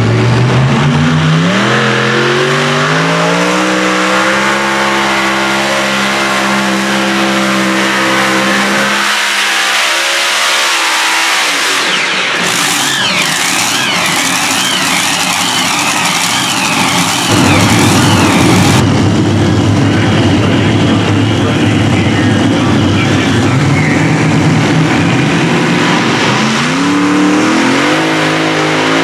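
Modified pulling tractor's engines revving up hard and held at high rpm under load, then cutting off about nine seconds in. A few seconds of mixed noise follow, and near the end another pulling tractor's engine revs up.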